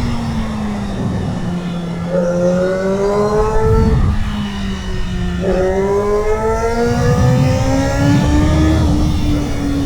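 2008 Kawasaki ZX-6R inline-four through a GPR aftermarket exhaust, heard onboard while riding. The engine note climbs under acceleration about two seconds in, drops away around four seconds, then climbs again from about five and a half seconds.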